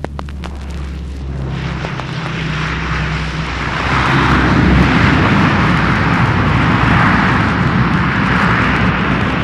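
Aircraft engine noise played from an old vinyl LP: a roar that grows louder over the first four seconds or so as the plane closes in, then stays loud. A few record clicks come early, over a low steady engine drone.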